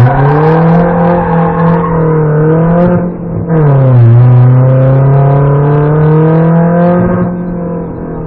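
BMW 318ti Compact rally car's four-cylinder engine, heard from inside the cabin, revving hard under acceleration. About three seconds in, a quick gear change briefly cuts the sound and drops the revs, then the engine pulls again with rising revs and eases off near the end.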